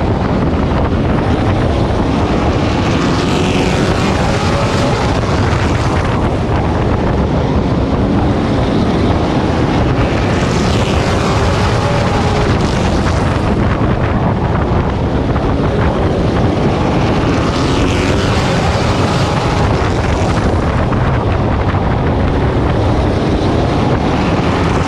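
Race truck engine running hard at racing speed, heard on board with wind buffeting the microphone. The engine note drops and climbs again every seven seconds or so as the truck goes through the turns.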